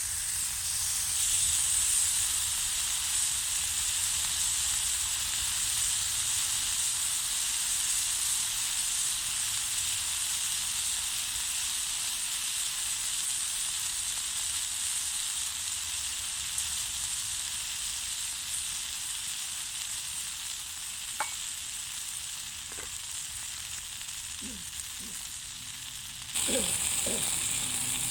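Food sizzling steadily as it cooks over a wood fire, with a few faint crackles late on. The sizzle suddenly gets louder near the end.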